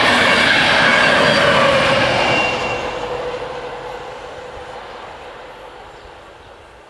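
Intercity train running past at close range, loud for about the first two and a half seconds, then fading steadily as it moves away.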